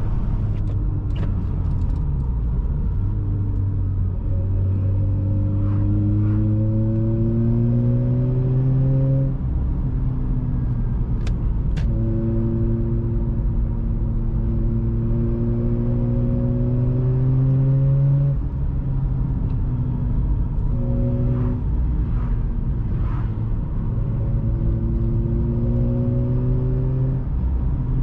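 Mazda RX-8's twin-rotor Wankel engine, breathing through an Re Amemiya aftermarket exhaust, pulling under load. Its note climbs slowly in pitch in three long stretches of several seconds and drops after the first two, at about 9 and 18 seconds in, as the car upshifts or lifts off.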